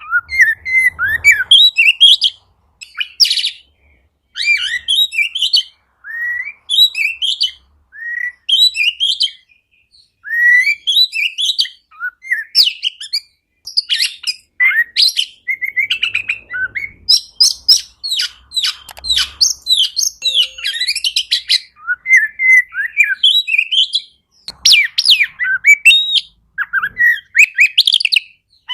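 Oriental magpie-robin (kacer) singing a rich, varied song of quick whistled notes and chirps, delivered in phrases of a second or two with short pauses between them.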